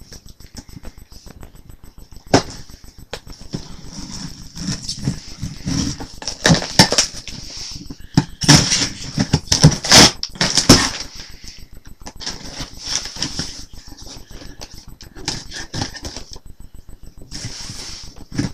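A cardboard shipping package being cut and torn open by hand: scraping, rustling and clicks, with a run of loud tearing and crinkling bursts about halfway through.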